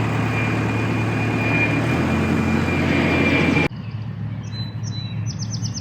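A diesel telehandler engine running steadily, with a thin steady high-pitched whine over it. About two thirds of the way through the sound cuts off abruptly to a quieter low engine hum, with a few faint bird chirps.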